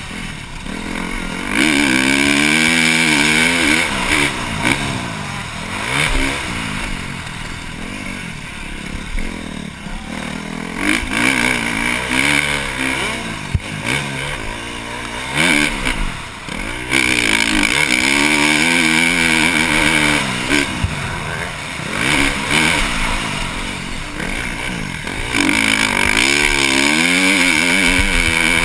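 KTM 350 SX-F single-cylinder four-stroke motocross engine with a Yoshimura exhaust, revving up and down over and over as the throttle is opened and shut, with several stretches of a few seconds each held loud at high revs.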